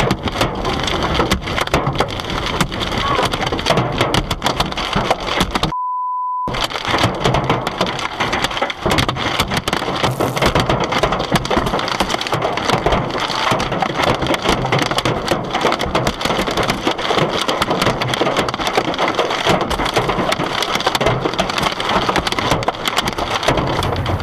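Hail hammering on a car's body and glass: a dense, continuous clatter of hailstone impacts. About six seconds in, the clatter is cut by a short steady beep.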